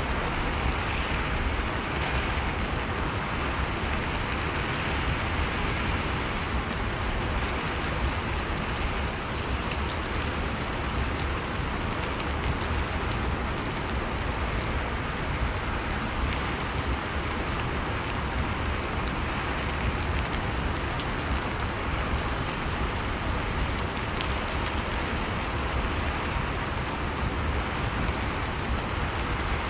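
Steady rain falling: a dense, even patter with a deep low rumble beneath it, unchanging throughout.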